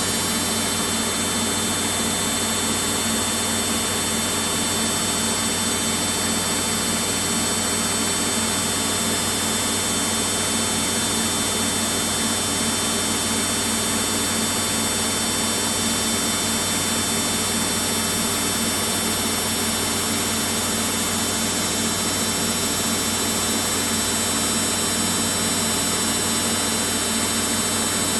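Samsung front-load washing machine spinning its drum, a steady hum and whine from the motor and drum that holds the same level throughout.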